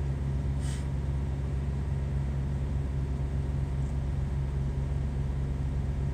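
A steady low hum, with a brief faint scrape about half a second in.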